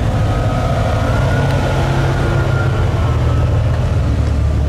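A car engine running steadily and loudly at an even, low pitch.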